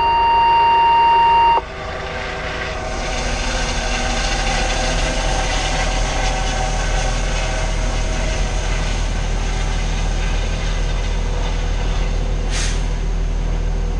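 A steady high electronic beep that cuts off about a second and a half in. Then a medevac helicopter's turbine and rotor noise builds over a couple of seconds and holds steady and loud, with a whine of several steady tones over a deep rumble: the helicopter running up for departure from the landing zone.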